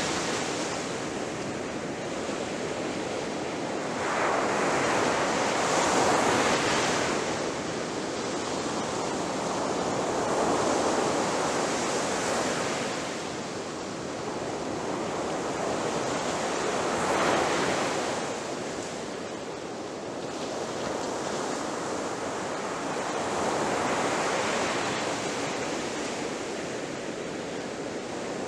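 Ocean waves breaking on a beach, the surf swelling and easing about every six to seven seconds.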